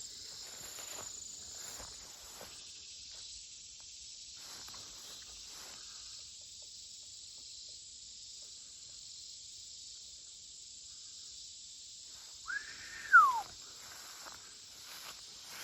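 Steady chorus of crickets and other insects, with footsteps swishing through wet grass over the first several seconds. About twelve and a half seconds in, a single loud whistled note slides up, holds briefly and falls away; it is the loudest sound here.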